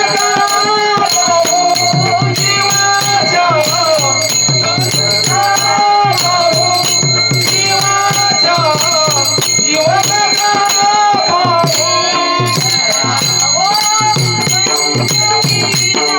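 A girl's voice singing a Marathi abhang (devotional song) with a gliding melody, over steady jingling percussion and a low drum beat.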